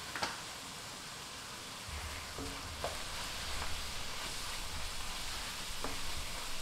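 Ground beef, onion and garlic sizzling in a cast iron skillet. From about two seconds in, a wooden spoon stirs the mix, scraping and lightly knocking against the pan.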